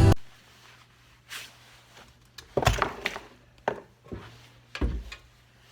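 A handful of separate dull knocks and clunks, like objects being handled and set down in a small workshop, over a low steady hum.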